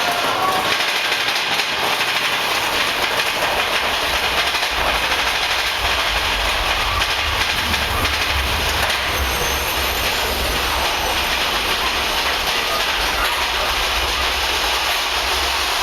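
Mine-train roller coaster cars running along the track with a steady rattle and clatter. A deeper rumble comes in about four and a half seconds in.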